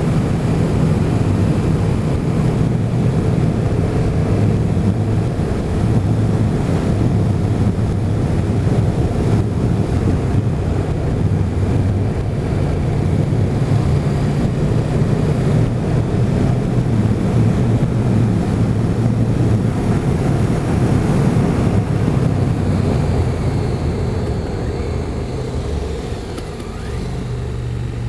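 Motorcycle engine running steadily under way, with heavy wind noise on the microphone. The engine eases off and the overall sound drops briefly near the end.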